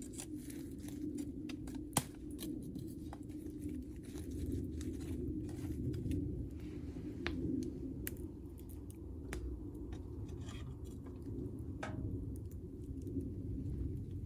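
Wood fire crackling with irregular sharp pops over a steady low rush of flame; one loud pop about two seconds in.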